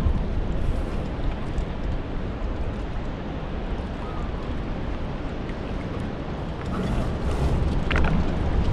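Wind buffeting the microphone over water rushing past a Hobie 14 catamaran under sail, a steady low rumble that swells louder near the end.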